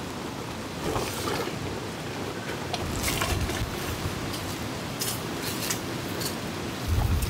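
Steady rain and wind noise, broken by a few short rustles and knocks, with a low rumble starting near the end.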